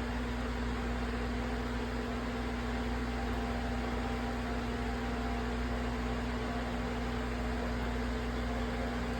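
Steady electric whir of a small fan-driven appliance, a constant hum with an even rush of air that does not change.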